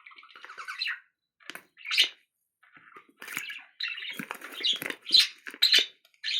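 Small pet birds chirping and squawking in short, high bursts.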